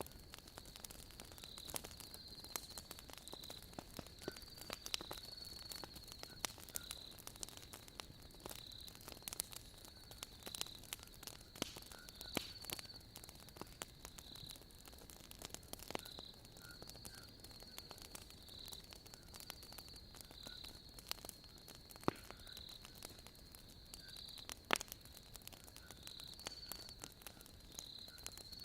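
Wood fire crackling with scattered sharp pops, over a steady chirping of crickets.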